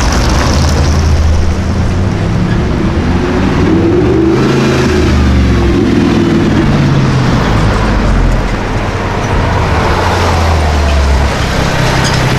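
A high-performance car engine running loud in street traffic, its pitch rising and falling as it revs about four to six seconds in.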